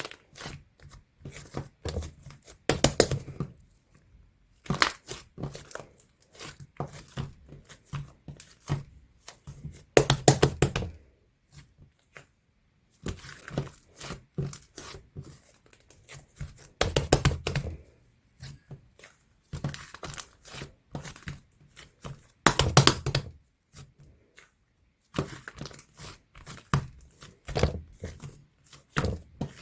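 White clay slime being squeezed and stretched by hand, making clusters of sticky crackling pops and clicks with short pauses between them.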